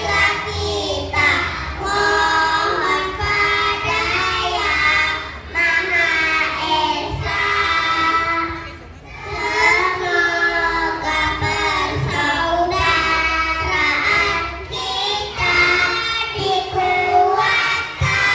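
A kindergarten children's choir singing together.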